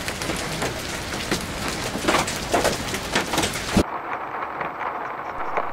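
Heavy storm rain falling and striking hard surfaces, with many sharp individual taps. About four seconds in it cuts to a duller, muffled rain heard from inside a car, drops hitting the windscreen.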